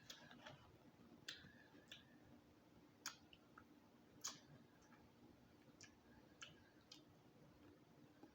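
Near silence with faint, scattered mouth clicks and smacks, about eight in all and unevenly spaced, from someone eating chicken. A faint steady hum sits underneath.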